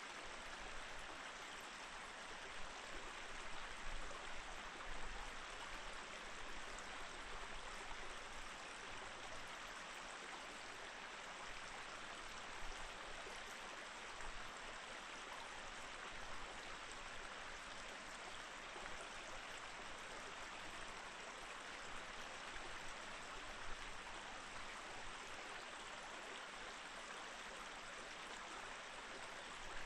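Mountain stream running over rocks: a steady rush and burble of flowing water with small splashes here and there.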